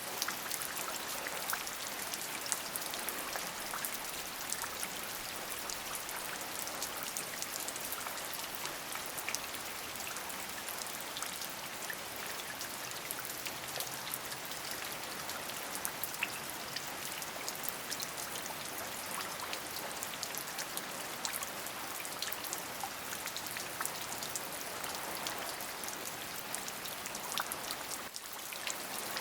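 Steady rain falling, an even hiss dotted with many small, sharp drop ticks; it drops away for a moment near the end before carrying on.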